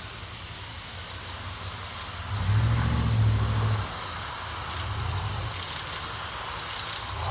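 Steam locomotive C12 66 running: a low rumble that swells loudest about two and a half seconds in, then short hissing beats near the end.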